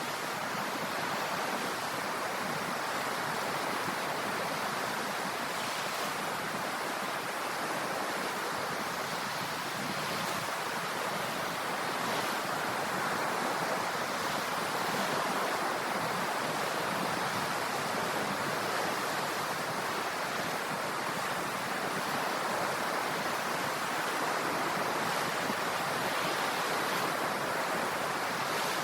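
Ocean surf: a steady wash of waves with gentle swells in level.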